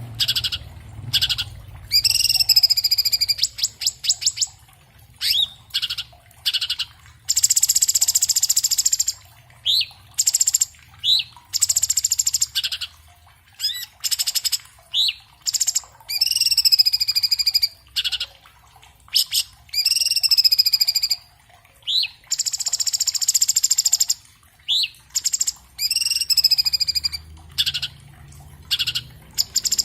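Orange-bellied leafbird singing a fast, dense song. It is a rapid run of high, sweeping whistled notes mixed with short rising chips and buzzy rattles, with only brief pauses between phrases.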